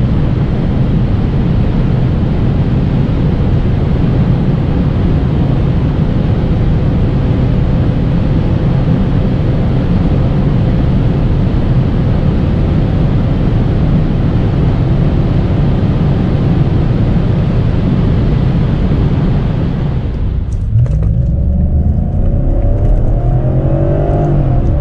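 BMW E39 540i's 4.4-litre V8 running at high speed, largely buried under steady wind and road noise for about twenty seconds. Then the rush of noise drops away and the V8 is heard accelerating hard, its pitch rising, with a brief dip near the end like a gear change before it climbs again.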